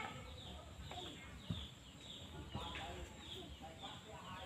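Outdoor ambience with a bird chirping over and over, a short falling chirp a few times a second, over a low background hum.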